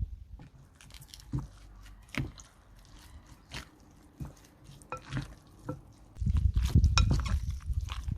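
Wet, squelching sounds of food being handled, with scattered sharp clicks and taps, growing denser and louder about six seconds in.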